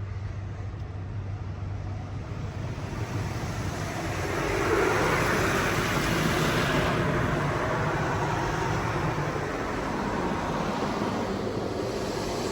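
PDQ LaserWash G5-S touchless car wash spraying water over a car: a hiss of spray over a steady low hum, swelling about four seconds in and then slowly fading.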